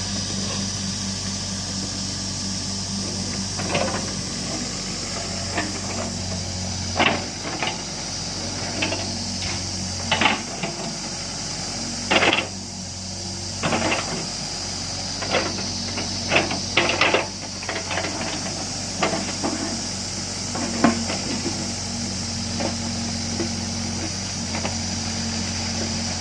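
A Hyundai 55 mini excavator's diesel engine idling with a steady low hum. Over it come irregular sharp metallic knocks and clanks, thickest in the middle stretch.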